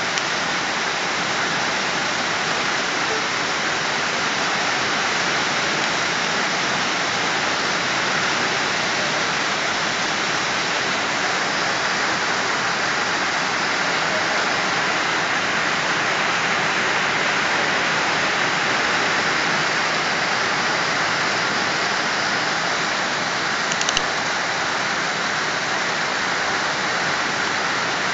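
Heavy monsoon rain pouring down, a dense, steady hiss with no letup.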